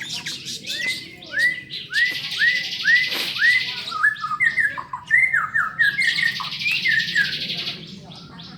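A lovebird calling: a run of short downward-sweeping chirps, about two a second, broken by two long, harsh, rapid chattering trills, the drawn-out 'ngekek' that lovebird keepers prize. The calling drops away near the end.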